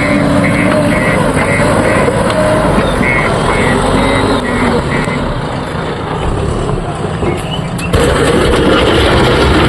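Heavy diesel machinery running, its engine pitch rising and falling under work, with a reversing alarm beeping about twice a second for the first five seconds. About eight seconds in, the sound changes abruptly and grows louder.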